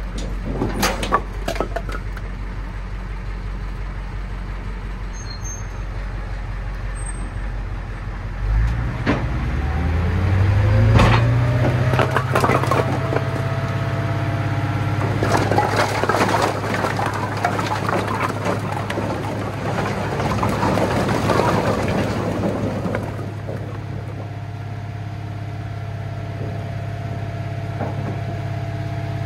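International 4700 hook lift truck's engine running low, with a few knocks in the first couple of seconds; about eight seconds in it revs up as the truck pulls away, then settles into a steady, higher-pitched drone.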